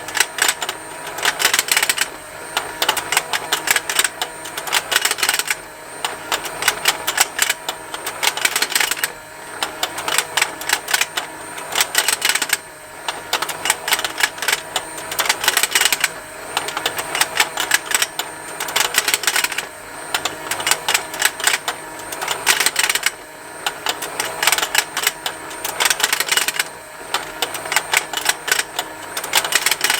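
Motorized plastic fishing game toy running: its mechanism ticks rapidly over a steady motor hum, the clicking swelling into louder clusters about every three and a half seconds as the plastic fish snap open and shut.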